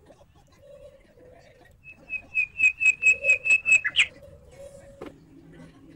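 A small bird chirping: a quick run of about nine short, evenly spaced high notes, roughly four a second, starting about two seconds in.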